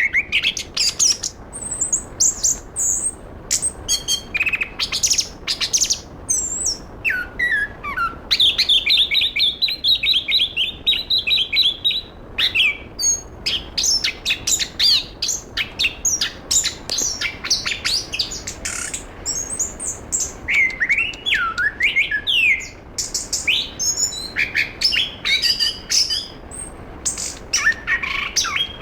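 Chestnut-capped thrush (anis kembang) singing a continuous, fast, varied song of sharp chirps, trills and whistled slurs. About a third of the way in it delivers a long run of rapid repeated notes.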